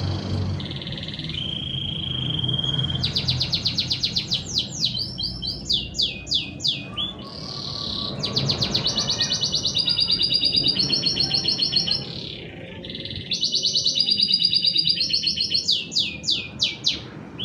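Domestic canary singing a long song of fast trills and rolls: rapid runs of repeated notes that shift in pitch from one phrase to the next, with a brief pause about twelve seconds in.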